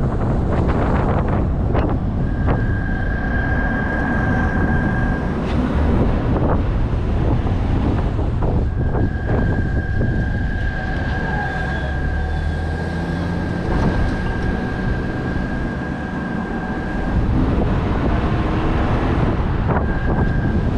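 Wind buffeting the microphone over a dense low rumble. A steady high-pitched whine comes in a few seconds in, stops, then returns for about eight seconds.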